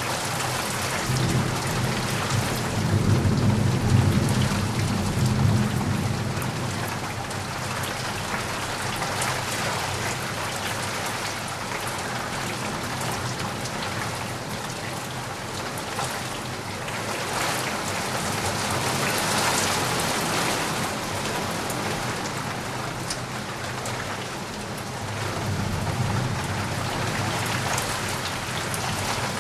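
Steady heavy rain pattering, with a low rumble of thunder swelling a second or so in and another near the end.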